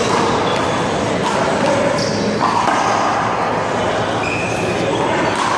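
A few sharp smacks of a small rubber handball struck against a wall, with about two clear hits, one about two seconds in and one near the end. Under them runs a steady noisy background with faint voices.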